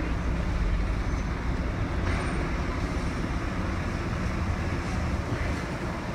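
Steady low rumbling noise of road traffic, with no distinct events.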